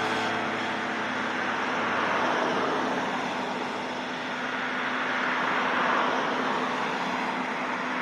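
Limestone freight train running past: a steady rolling rumble with a faint steady hum, swelling and easing slightly.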